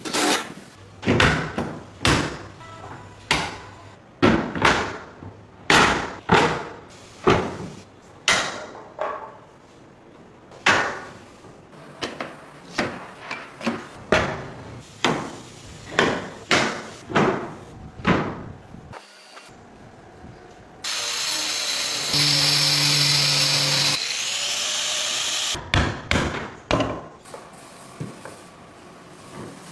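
Woodworking sounds: a long run of sharp knocks on wood, about one or two a second at an uneven pace, like hand tools being struck. Past the middle a power tool runs steadily for about four seconds and stops, and a couple more knocks follow.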